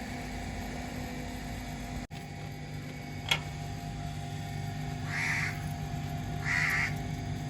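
A crow cawing twice, short harsh calls about five and six and a half seconds in, over a steady low engine hum.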